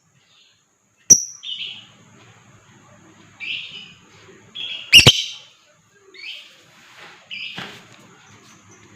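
Lovebird giving short, shrill chirping calls, about five of them spaced a second or so apart, with a sharp click about one second in and a louder one about five seconds in.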